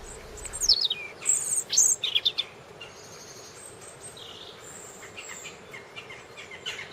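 Birds chirping: a run of quick, downward-sweeping chirps in the first two or three seconds, then fainter high calls.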